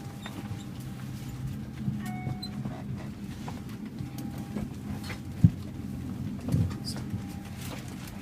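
Boarding noise in a parked Airbus A320 cabin: a steady low hum, with scattered clicks and knocks and a sharp thump about five and a half seconds in.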